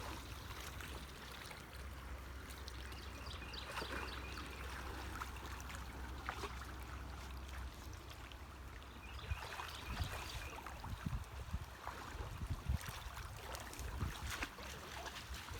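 Shallow creek water trickling steadily, with soft low thumps from about ten seconds in.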